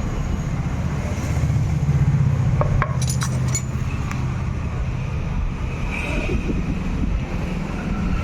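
Steady low rumble of passing road vehicles, with a few short metallic clinks about three seconds in.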